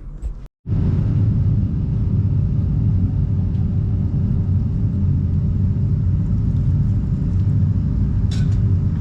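A loud, steady low rumble of running machinery with a constant hum, starting suddenly after a brief dropout about half a second in, and a short click near the end.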